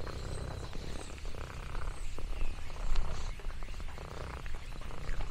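Domestic cat purring steadily, a low continuous rumble, with scattered small clicks and rustles over it.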